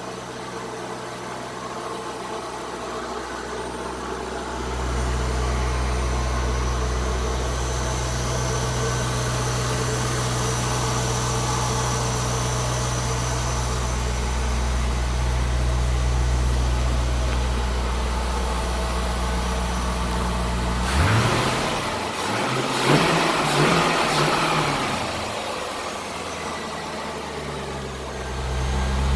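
2004 Chevrolet Corvette's V8 idling steadily through its exhaust. About two-thirds of the way through it is revved several times in quick succession, then it settles back to idle.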